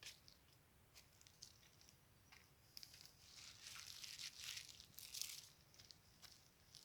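Near silence, with a few faint scattered clicks and a soft rustling that swells from about three to five seconds in.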